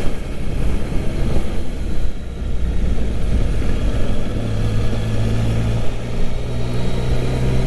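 Yamaha Tracer 900 GT's three-cylinder engine running while riding in city traffic, with wind and road noise. A steadier low hum settles in about halfway through.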